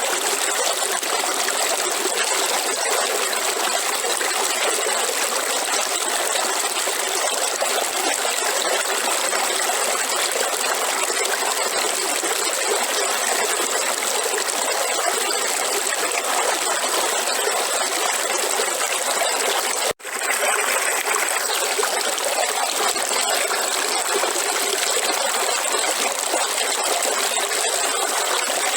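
River water flowing steadily, an even rushing and trickling. It cuts out for an instant about twenty seconds in, then resumes unchanged.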